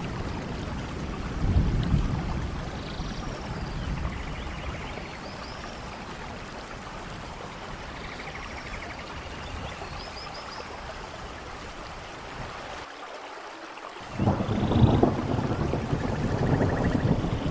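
Steady rain in a rainforest thunderstorm, with thunder rolling: a low rumble about two seconds in, and a louder rumble that starts suddenly near the end. A few faint high chirps sound over the rain.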